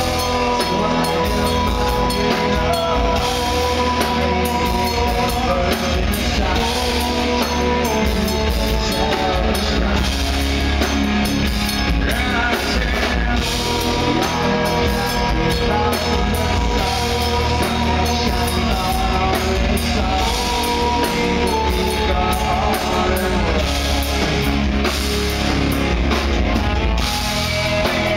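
Live rock band playing, with distorted guitars, drum kit and a singing voice, loud and steady.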